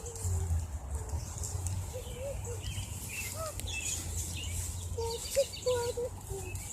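Faint, scattered short bird calls over a low, steady rumble.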